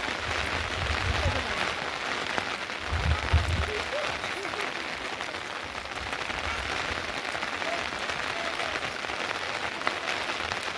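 Steady rain falling, with fine drop impacts throughout. There are low rumbles near the start and again about three seconds in.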